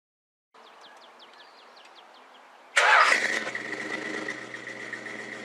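A car engine starts with a sudden loud burst about three seconds in, then runs steadily at idle with a steady high whine over it.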